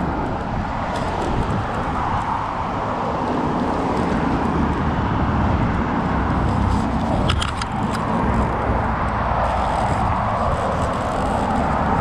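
City road traffic with cars passing, heard from a moving bicycle as a steady noisy rumble; a brief high squeak about seven seconds in.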